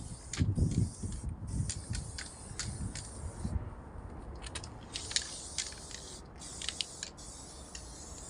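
Aerosol spray-paint can hissing in repeated bursts of about a second, with short pauses between them, while graffiti is painted. Low dull bumps of handling come in the first second.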